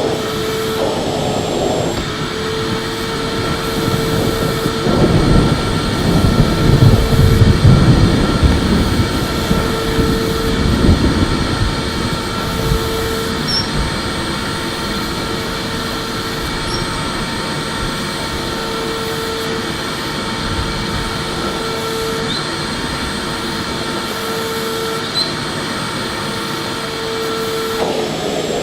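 Electric vacuum cleaner running steadily, its motor whine holding an even pitch over a constant rush of air. In the first half, a louder low rumble rises and falls for several seconds.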